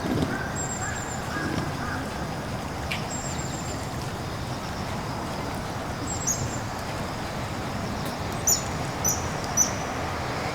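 Ducks giving a few soft quacks over a steady background hiss, with short high-pitched bird calls, three sharper ones near the end.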